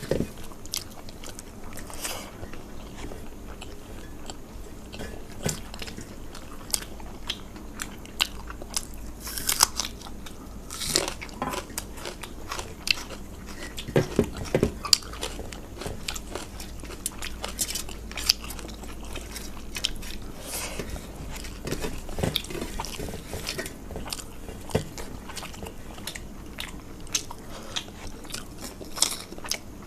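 A person eating fried food with rice: chewing with many irregular crisp crunches. A burst of louder crunching comes about halfway through.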